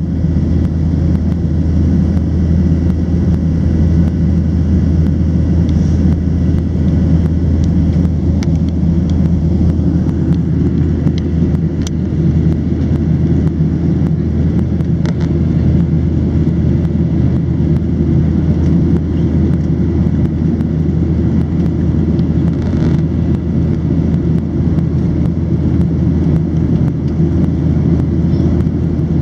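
Steady, loud low rumble inside the cabin of a Boeing 737-700 in flight: the CFM56-7B turbofan engines and the airflow over the fuselage, unchanging throughout.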